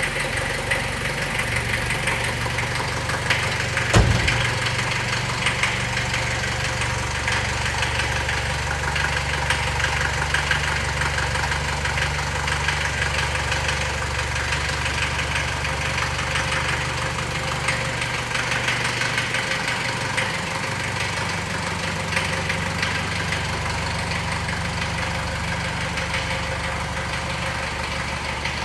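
1974 Mercedes-Benz 240D's OM616 2.4-litre four-cylinder diesel idling steadily, cold, just after a cold start. A single sharp thump about four seconds in.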